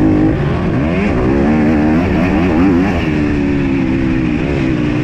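Motocross bike engine running hard under race throttle. Its pitch climbs and drops several times in quick succession in the middle, then holds steady, over a heavy low rumble.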